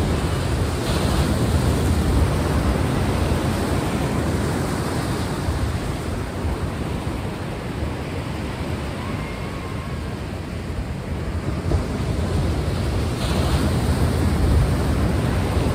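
Sea waves washing on a shore: a steady rush of surf that eases a little midway and swells again near the end.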